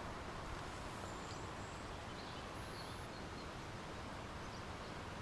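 Steady outdoor rushing noise with a few faint, short, high bird chirps over it.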